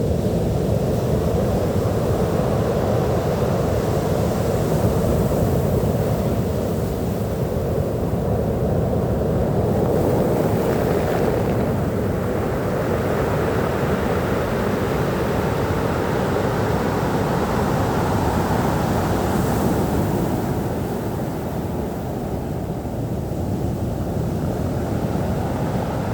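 Sea waves washing onto a beach: a steady low rush of surf that swells as waves break, about ten seconds in and again near twenty seconds.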